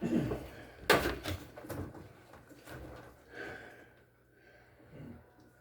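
Handling noise from work on a washing machine: one sharp knock about a second in, then a few lighter clicks and rattles that die away.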